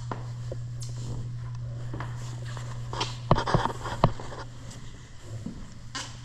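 Footsteps and a few sharp knocks and taps, loudest about three to four seconds in, over a steady low hum in a room.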